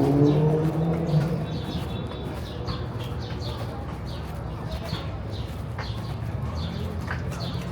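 Small birds chirping over and over, each chirp a short high downward sweep, over a steady low city street hum. A pitched engine sound fades away in the first second.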